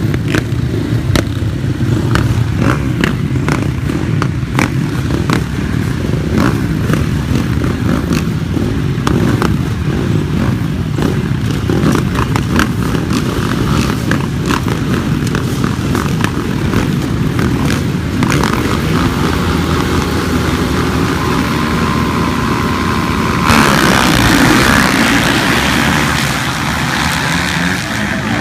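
Motocross dirt bike engine running hard, with many sharp clatters and knocks over it. A loud rushing noise joins in near the end.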